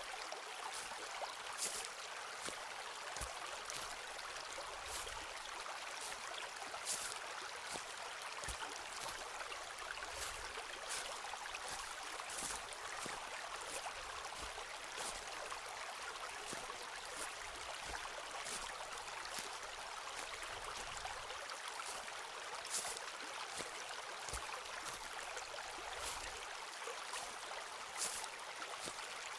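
Footsteps on a forest path, one step every second or two, over the steady rush of a flowing stream.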